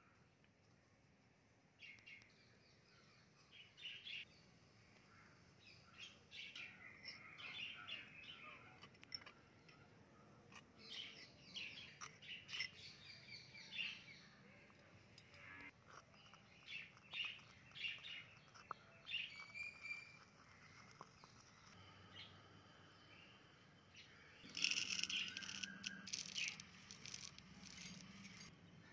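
Birds chirping: faint, scattered short calls, with a louder flurry of chirping near the end.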